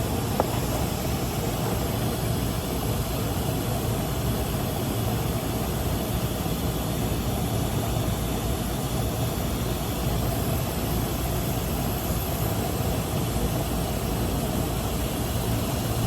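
A motor running steadily with a low hum and even noise.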